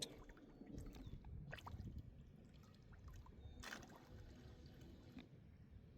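Near silence: faint outdoor background with a low rumble and a couple of soft clicks, about one and a half and four seconds in.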